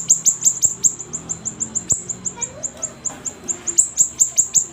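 Siri-siri bird singing vigorously: a rapid, even string of high, sharp down-slurred chips, about six or seven a second.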